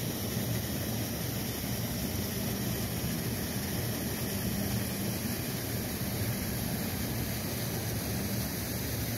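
Steady rushing noise of river water flowing below a dam, even in level with a low rumble under a broad hiss.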